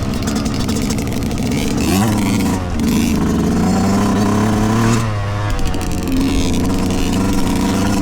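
A 2023 Yamaha YZ125's two-stroke single-cylinder engine revving under way. The pitch drops and climbs back sharply about two seconds in and again about five seconds in, as the throttle is chopped and reopened.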